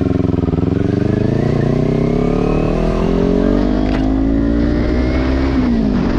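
Kawasaki Ninja 400 parallel-twin engine accelerating under way, its pitch climbing steadily for about five seconds, then dropping sharply near the end before holding steady.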